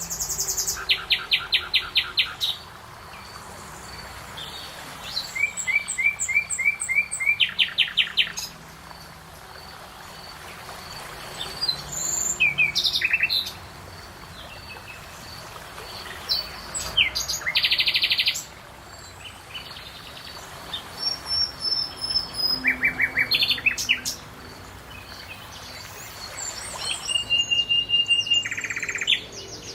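Songbird singing in short phrases of rapid repeated notes, a phrase every few seconds.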